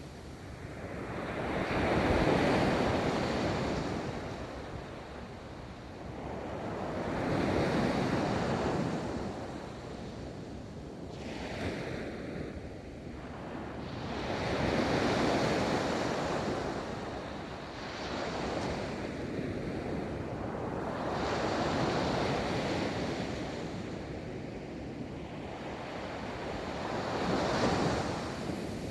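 Ocean waves rolling in and breaking on a beach, the surf swelling and fading every five to six seconds, with some wind on the microphone.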